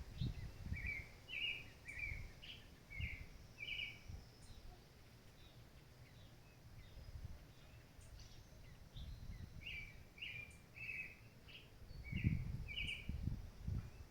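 A songbird singing two phrases of about six short, quick repeated notes, the first at the start and the second about nine seconds later. Low rumbling bursts run underneath, loudest near the second phrase.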